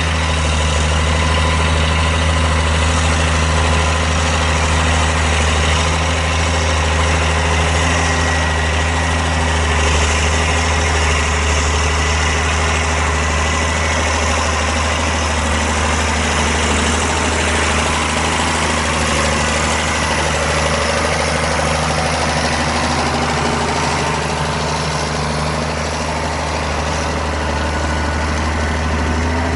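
A tractor's engine running steadily, a loud, deep, even drone.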